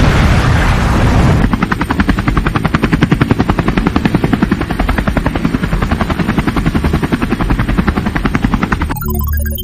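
An explosion's roar dies away in the first second and a half. Then a helicopter's rotor chops fast and steadily, until music takes over near the end.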